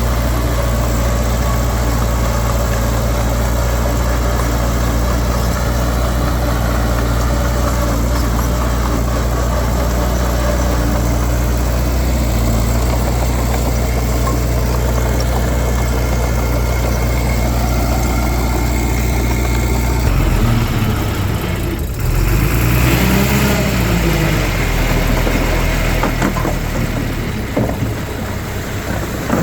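Heavy diesel engine of an earthmoving machine running steadily at a low idle. About twenty seconds in it revs up and down a couple of times, then settles and eases off near the end.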